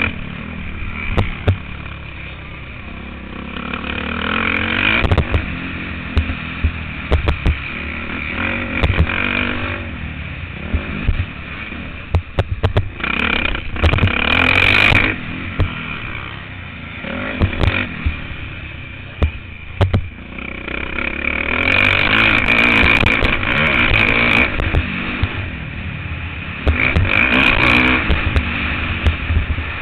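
Motocross bike's engine heard close on board, revving hard and backing off in repeated surges, with frequent short knocks and clatter from the bike over rough ground.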